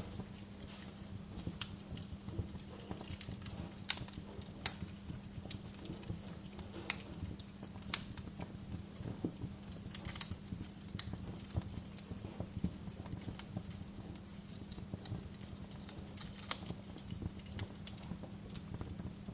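Fireplace crackling: irregular sharp pops and snaps, a few louder than the rest, over a low steady rumble.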